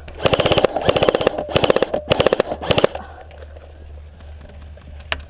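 Airsoft electric gun firing four short full-auto bursts in quick succession, each a rapid rattle of shots under a second long, with the gearbox's whine beneath them.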